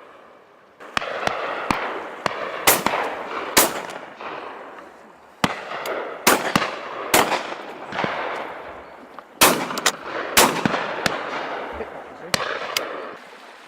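Shotguns firing repeatedly from several guns, about twenty shots at irregular intervals, some in quick doubles. Each shot trails a long fading echo.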